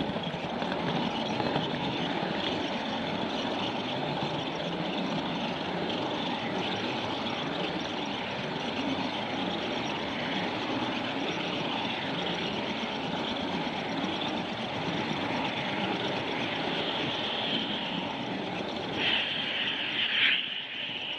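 A train running: a steady rumble and rail noise, with a brief louder hiss near the end.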